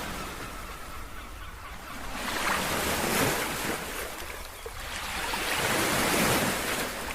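Waves breaking on a beach, swelling up and dying away twice, with a low rumble of wind on the microphone.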